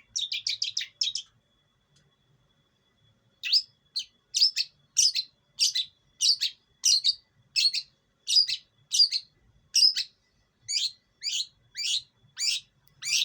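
Long-tailed shrike calling: a quick rattle of about six notes, then after a pause a steady series of short sweeping notes, about one and a half a second.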